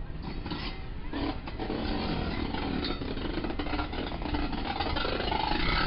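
Steam-hauled passenger coaches rolling slowly past along the platform as the train pulls out, a steady rumble of wheels with scattered clicks and creaks.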